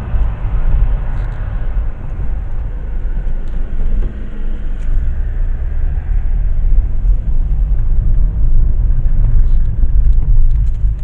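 Steady road and engine rumble inside a Ford Ka III's cabin while driving, with no rattle to be heard from the front left: the brake pads now sit firmly under a new retaining clip.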